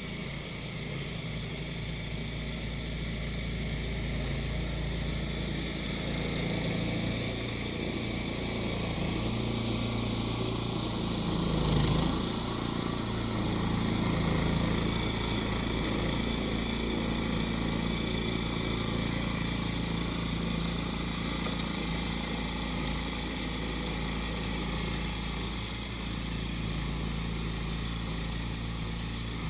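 The small engine of a grass-cutting machine running steadily, with cicadas buzzing over it; the engine swells briefly about twelve seconds in.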